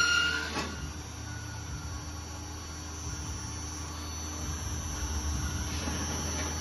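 Metal-cutting bandsaw machine running with a steady low hum and a faint high whine. A high-pitched squeal stops about half a second in.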